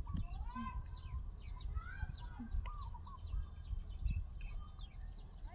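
Small birds chirping and twittering repeatedly, several short quick calls overlapping, over a steady low rumble of outdoor background noise.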